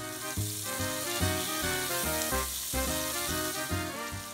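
Sliced onions sizzling as they sauté in sesame oil in a skillet, under background music with changing notes.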